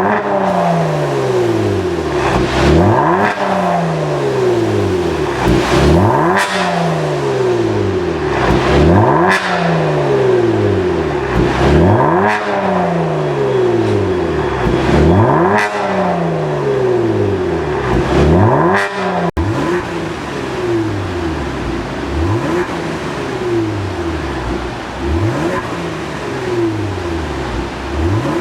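Genesis G70 3.3T's twin-turbo V6 through an aftermarket valved exhaust, revved again and again: each rev climbs fast and dies away over a couple of seconds, about every three seconds. After about 19 s the revs turn quieter and smaller.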